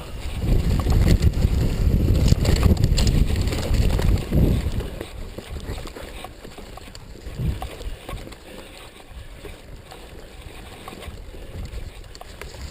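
Wind buffeting the microphone of a camera riding on a mountain bike, with short rattling knocks from the bike over rough ground. The rumble is loudest for the first four seconds or so, then drops to a quieter rush with occasional knocks.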